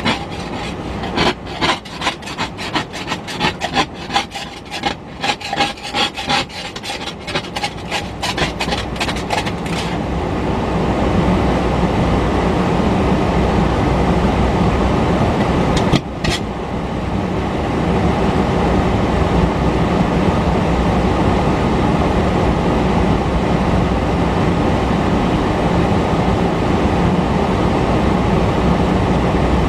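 A passing train: a rapid, irregular clatter of clicks and rattles for about the first ten seconds, then a steady rumble that carries on, with a brief dip about sixteen seconds in.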